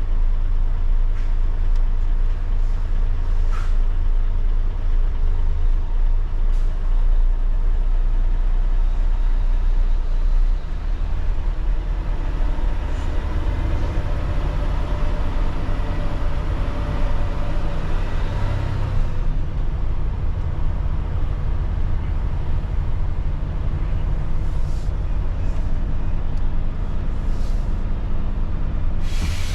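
Heavy diesel engine running steadily with a low drone, with a few light clicks and a brief hiss near the end.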